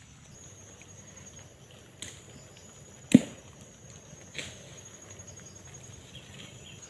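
Chopping strokes into vegetation with a blade: three sharp strikes about a second apart, the middle one the loudest, over a steady high-pitched drone.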